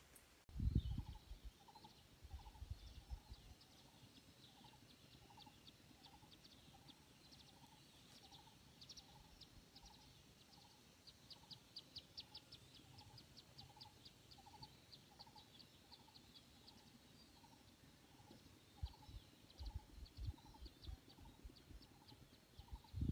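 Small birds calling in the forest: one repeats a short low note about twice a second throughout, while high, rapid trills come in around the middle. Low thumps on the microphone come near the start and again near the end.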